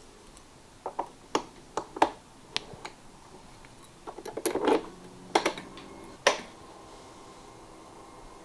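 Sharp clicks and knocks of a Honda Today 50cc scooter being readied to start, before the engine turns over. A faint steady hum sets in about five and a half seconds in and fades near the end.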